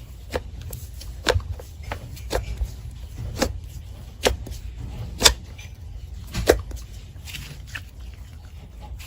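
Slime being pressed and worked by hand, its trapped air bubbles popping in sharp pops at irregular intervals, roughly one a second, over a low squishing rumble.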